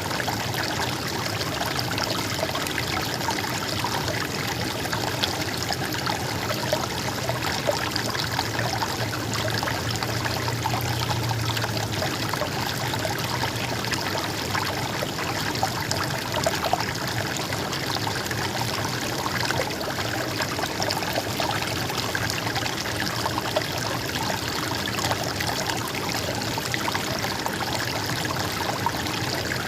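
Water flowing and trickling steadily, a small stream or river babbling over stones.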